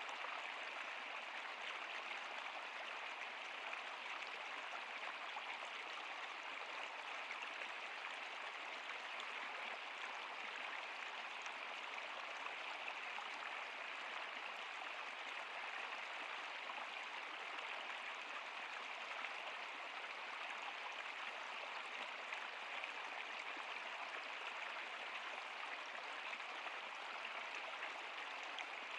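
Stream water running over rocks: a steady, even rushing and babbling that does not change.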